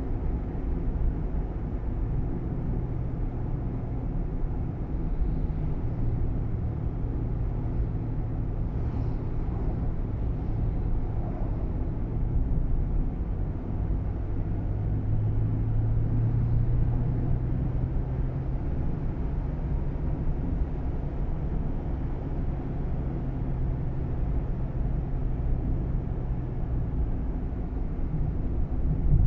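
Steady engine hum and road rumble inside the cabin of a Nissan Roox kei car on the move, the engine tone drifting slightly in pitch.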